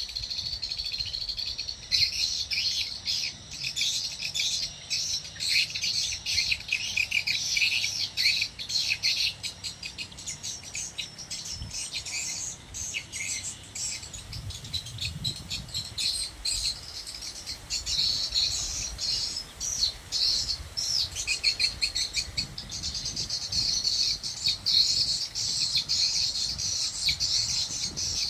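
Edible-nest swiftlets chirping and twittering, a dense continuous chatter of short high calls.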